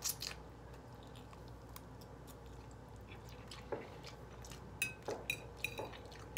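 Close-up mouth sounds of eating fettuccine alfredo: a short noodle slurp at the start, then quiet wet chewing. Near the end a metal fork clicks against the plate a few times.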